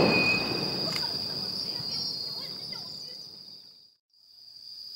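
Fading rumble and echo of a firework shell that has just burst, with a faint pop about a second in, over night insects trilling in a steady high tone. All sound cuts out briefly just before four seconds in, then the insect trill returns.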